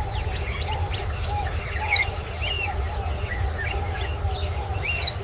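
Several birds chirping and calling in quick short notes, with lower warbling notes underneath, over a steady low rumble.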